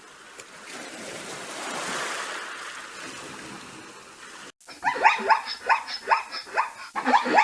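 A rushing noise swells and fades, then after a sudden cut an animal gives a run of short, pitched calls, about two to three a second, each sliding in pitch.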